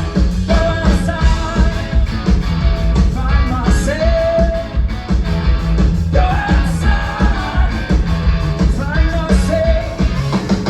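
Loud punk rock band playing, with a voice singing held notes over drums and guitars.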